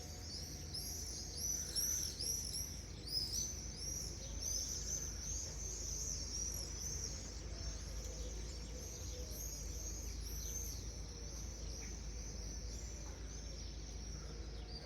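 A flock of insect-hunting birds calling as they fly about: many high, short chirps overlapping, with a steady low hum underneath.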